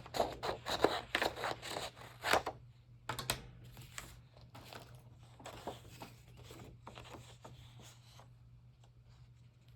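Paper being handled, rustled and torn by hand: a dense run of quick crackles in the first couple of seconds, then scattered softer rustles that die away near the end.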